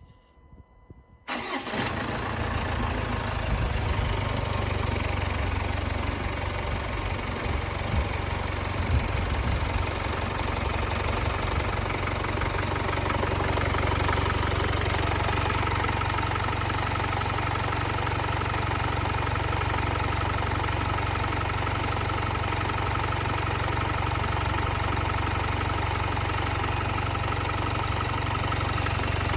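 Jaguar XE's 2.0-litre Ingenium four-cylinder diesel starting about a second in, then idling steadily, a little uneven for the first several seconds before it settles. It runs without timing-chain rattle, its chain, guides and tensioners freshly replaced.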